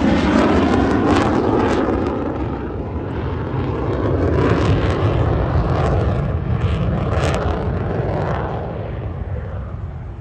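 Aircraft engine roar from an aircraft flying past, loud and steady at first, then slowly fading as it draws away.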